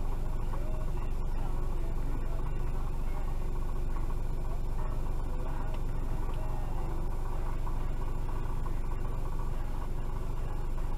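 Steady low hum of a car's engine idling, heard from inside the stopped vehicle's cabin.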